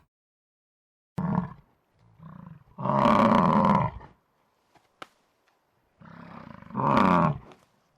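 A large animal calling: a short call about a second in, a long call around three seconds in, and another loud call near the end whose pitch falls, with quieter low sounds before the longer calls.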